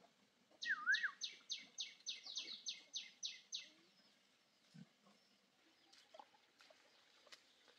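A bird singing a quick run of about a dozen high, clear notes, each falling in pitch, about four a second for some three seconds. The run opens with a lower, wavering note.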